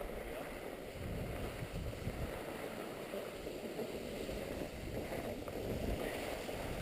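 Skis sliding over packed snow, with wind rushing over the microphone as a steady, uneven rushing noise.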